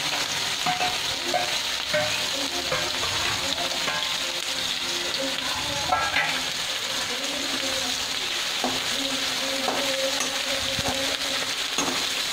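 Chopped onion and green chillies sizzling in hot mustard oil with cumin and mustard seeds in a steel kadhai: a steady high frying hiss. Now and then a metal utensil scrapes and knocks against the pan as it is stirred.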